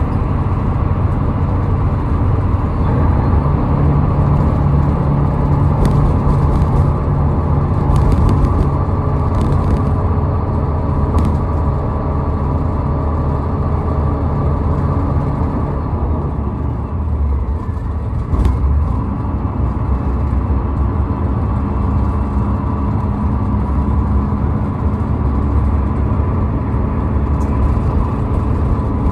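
Steady engine and tyre noise of a car driving on a highway: a continuous low drone with a few steady hums in it.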